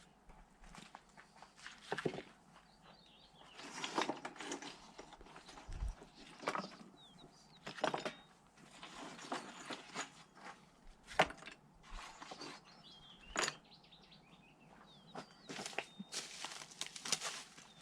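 Irregular knocks, scrapes and rustles of handwork, with small birds chirping in the background.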